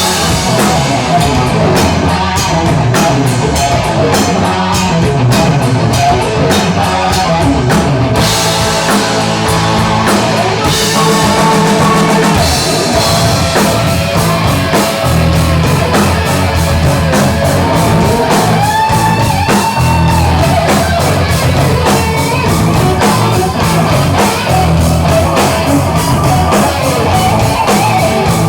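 A heavy rock band playing live, with drum kit, distorted electric guitar and bass, in an instrumental passage without singing.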